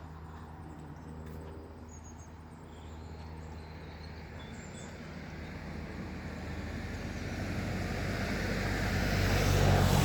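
A car approaching along the road, its engine and tyre noise growing steadily louder to a peak near the end.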